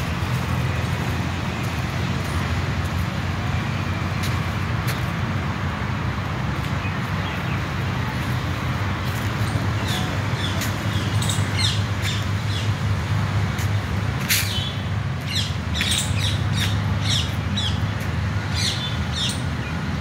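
Birds calling with short, sharp chirps and squawks, many in quick succession through the second half, over a steady low rumble.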